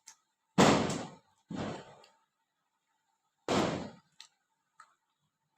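Bites of baked edible clay ('Punjab ki mitti') crunching close to the microphone: three loud crunches, the first about half a second in, another about a second later, and the last near the middle, with a few faint clicks between.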